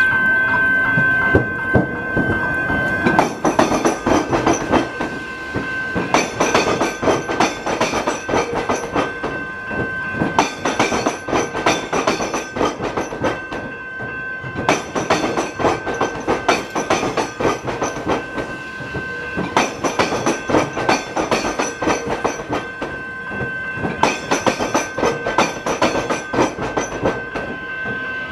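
A train passing over the tram square, its wheels clattering over the tram-track crossing in a long run of knocks that come in groups with short lulls, one group per bogie or carriage. A steady high tone runs underneath.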